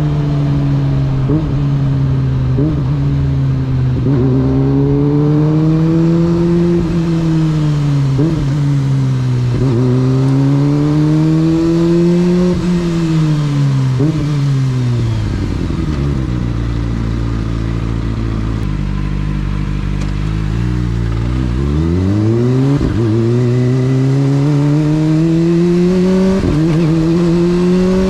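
Motorcycle engine on the move, its pitch rising and falling in long swells with short sharp blips in between. About halfway through it drops to a low, steady rumble, then revs back up near the end.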